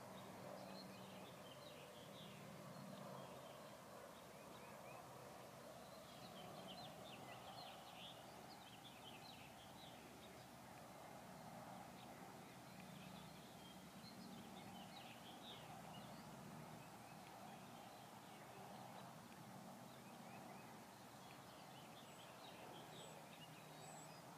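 Faint outdoor background with distant small birds chirping in scattered bursts over a low steady hum.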